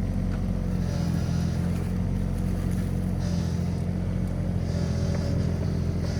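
Komatsu PC16 mini excavator's diesel engine running at a steady speed.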